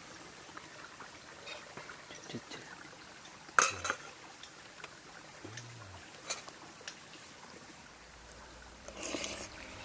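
Scattered light clinks and taps of dishes and utensils, with one louder clack about three and a half seconds in.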